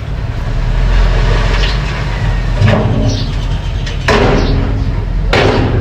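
Mini bulldozer engine running with a steady low rumble, with three short clanks or scrapes about three, four and five and a half seconds in.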